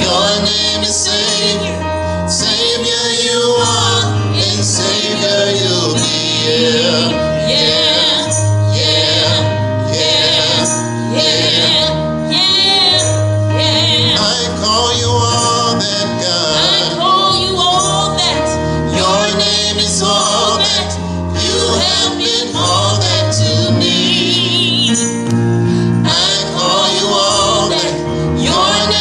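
Church choir singing a gospel selection with instrumental accompaniment.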